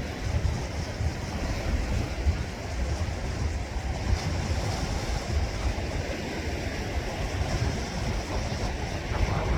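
Sea waves washing on the shore in a steady wash of noise, with wind buffeting the microphone as a fluttering low rumble.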